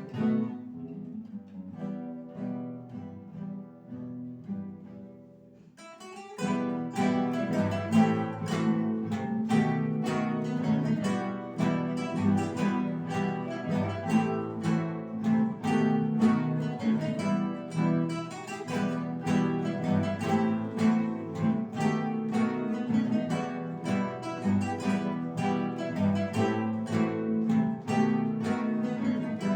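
Ensemble of acoustic guitars playing plucked notes, soft for the first few seconds, then, about six seconds in, a louder, brighter passage of quick plucked notes.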